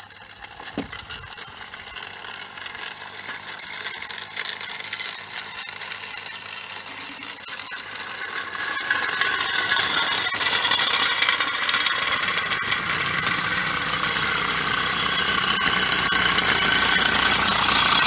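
Live-steam model traction engines running, with a mechanical rattle and a hiss that grow steadily louder and step up about nine seconds in.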